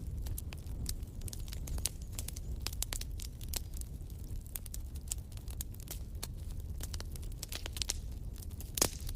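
Wood fire burning in a fireplace: irregular sharp crackles and snaps over a steady low rumble of the flames, with one louder pop near the end.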